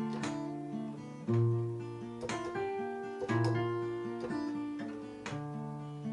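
Acoustic guitar playing an instrumental passage: strummed chords and picked notes, with deep bass notes about a second in and again near the middle.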